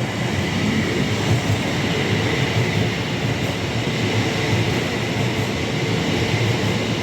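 Class 805 Evero bi-mode train passing through the station: a steady, loud rush of wheel and rail noise with a faint high whine.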